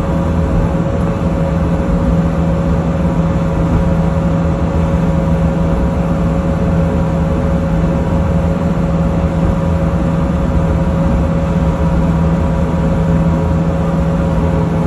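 Skid steer's diesel engine running steadily at constant speed, a loud, even engine drone.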